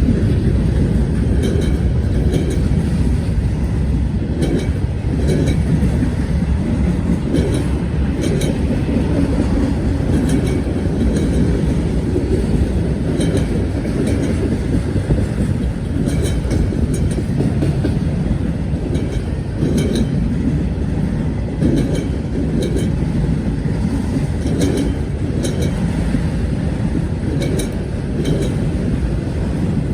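BNSF freight train rolling past, a steady rumble with its wheels clicking over the rail joints, often in quick pairs.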